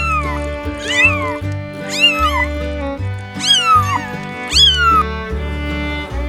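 A cat meowing over and over, about five rising-and-falling meows roughly a second apart, over background music with steady held notes and bass.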